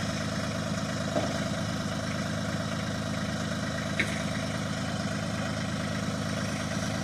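Tractor engine running at a steady, even speed, with a couple of faint clicks about a second in and again near the middle.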